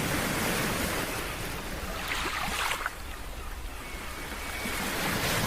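Rush of surf like ocean waves, a steady wash of noise that swells and eases a few times.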